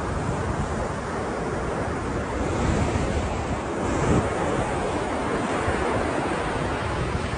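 Ocean surf washing steadily onto a shore, swelling a little louder about four seconds in, with wind buffeting the microphone.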